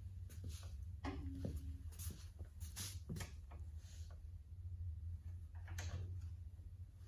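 Scattered clicks and knocks of hand work on the tractor, with a brief squeak about a second in, over a steady low hum.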